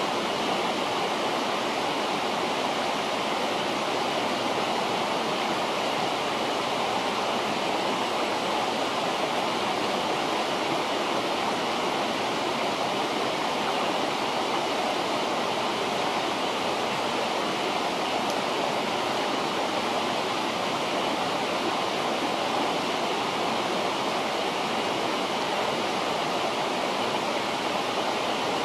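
A river rushing steadily, a constant even hiss of flowing water.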